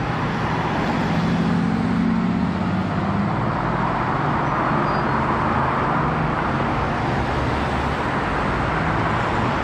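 A motor vehicle's engine running steadily with road noise, likely an inserted bus or traffic sound effect. It cuts off abruptly at the end.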